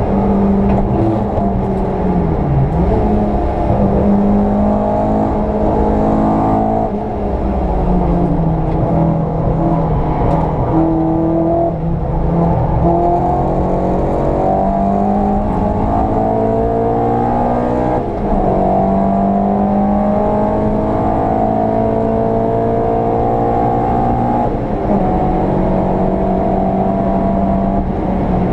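VW Polo 86C's four-cylinder engine pulling hard on track, its pitch climbing steadily and dropping back sharply several times, roughly every five or six seconds.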